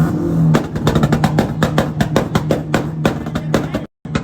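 EG Honda Civic engine revved up and held high, crackling with a rapid string of sharp pops. The sound cuts out briefly near the end.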